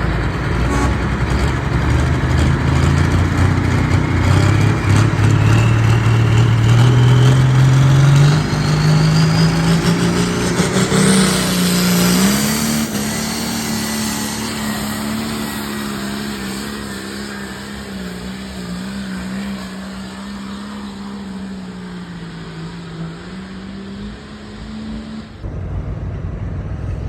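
A competition pulling vehicle's engine at full throttle under load, dragging the sled down the track. Its pitch rises steadily for about twelve seconds, then holds high while the sound slowly gets quieter.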